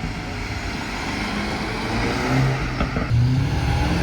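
A car engine running at low revs, blipped lightly so its pitch wavers up and down, growing a little louder from about halfway through.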